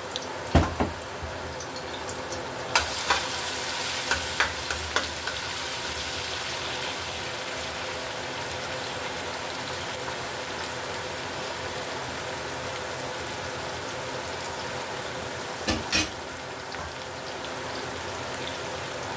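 Food sizzling steadily as it fries in hot oil in a cooking pot. A utensil knocks and clatters against the pot several times in the first few seconds, and twice more near the end.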